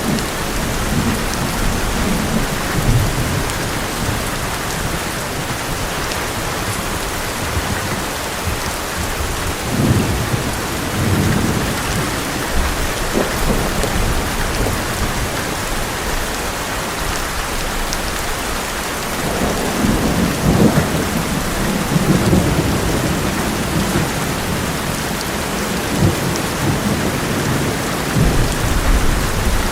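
Heavy rain drumming steadily on an old metal roof, with rolls of thunder rumbling low several times, the longest swell past the middle.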